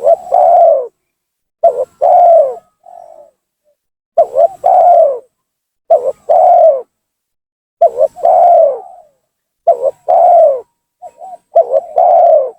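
Spotted dove (tekukur) cooing repeatedly, a phrase about every two seconds: a couple of short notes, then a longer coo that falls away. It is a vigorous male call used as a trapping lure to draw rival doves down.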